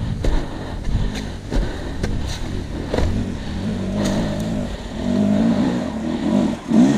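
A dirt bike engine revving unevenly, growing louder over the last three seconds, with knocks and rustling before it.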